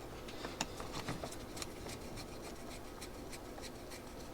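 Faint, irregular small clicks and scraping of metal carburetor parts being handled and a small screw-in valve being fitted into a go-kart carburetor by hand.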